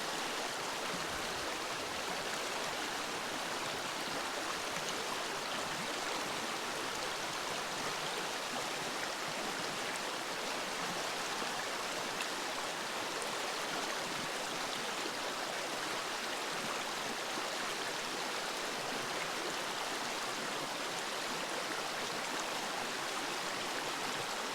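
Steady rushing of running water, like a stream, even and unbroken throughout.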